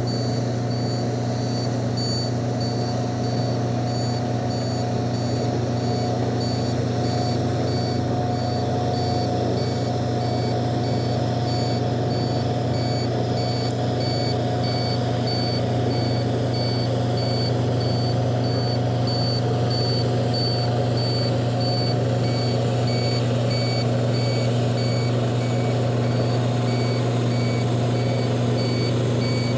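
Dump truck's reversing alarm beeping steadily, about twice a second, over the steady hum of the truck's engine running.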